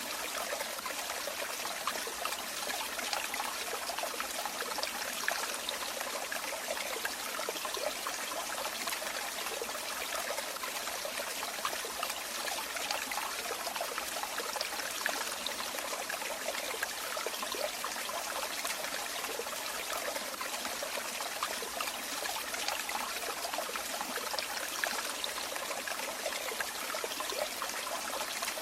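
Running water falling and trickling steadily: an even, unbroken splashing hiss dotted with many small splashes.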